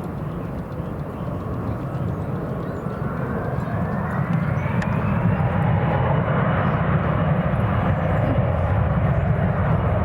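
Jet airliner's engines rumbling and growing louder, with a whine that rises in pitch over a few seconds and then holds steady.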